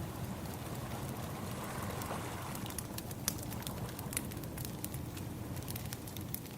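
Wood fire crackling, with irregular sharp pops and snaps, over a steady low rush of ocean waves.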